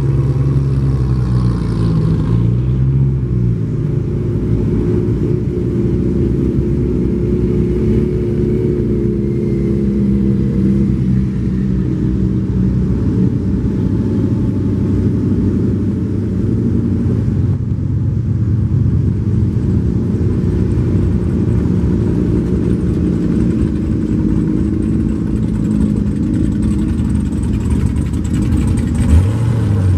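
Engines of several muscle cars running in a parade, a continuous low-pitched rumble with pitches that rise and fall as they rev and pass.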